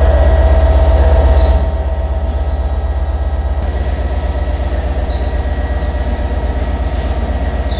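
Class 67 diesel locomotive standing with its engine idling, a steady low pulsing with a hum of steady tones above it; the engine note drops quieter about one and a half seconds in.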